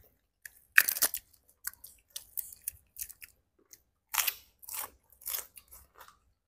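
Eating sounds: irregular bites, chewing and crunching as corn on the cob and shrimp in spicy mala sauce are eaten, with louder bites about a second in and around four seconds in.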